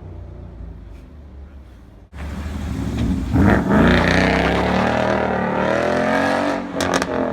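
Ford Mustang 5.0 V8 with a Roush axle-back exhaust accelerating, its engine note climbing steadily for about three seconds before easing off near the end. Before that, a lower running note cuts off abruptly about two seconds in.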